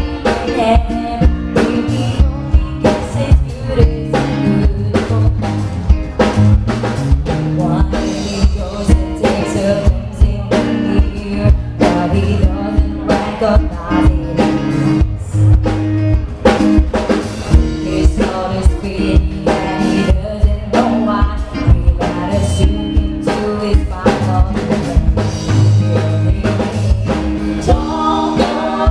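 A band playing a song: drum kit keeping a steady beat under bass and guitar, with a singer's voice over it.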